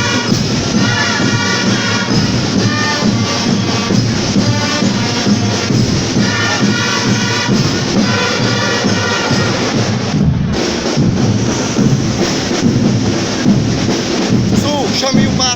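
Marching fanfare band playing: brass horns repeat a phrase over a steady beat of marching drums.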